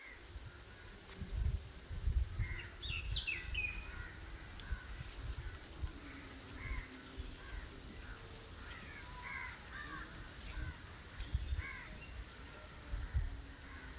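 Birds calling outdoors in many short calls, thickest about two to four seconds in and again later on, over an uneven low rumble.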